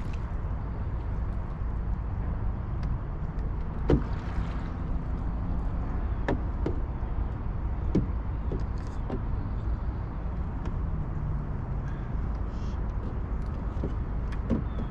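Steady low rumble of a boat sitting in strong river current, with a few sharp knocks on the boat, the loudest about four seconds in.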